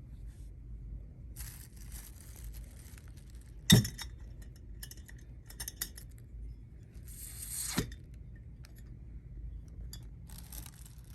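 Food items being handled and put away: rustling of packaging with a sharp clink about four seconds in and another just before eight seconds, over a steady low room hum.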